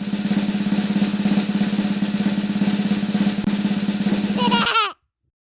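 Snare drum roll of rapid, even strokes, ending with a brief pitched flourish and then cutting off suddenly near the end.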